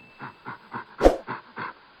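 A dog making a quick run of short, breathy sounds, about three or four a second, with one louder, sharper sound about a second in.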